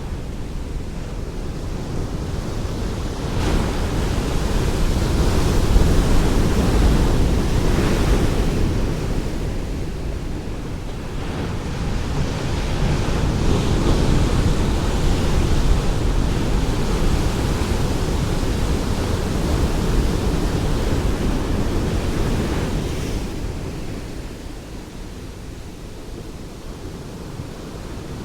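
Ocean surf: waves breaking and washing ashore as a steady rush of noise. It swells about three seconds in, surges again from around twelve seconds, and eases off near the end.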